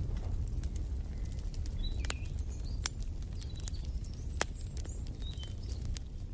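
Wood fire crackling in a fireplace, with scattered sharp pops over a steady low rumble, and a few short bird chirps about two seconds in and again near the middle.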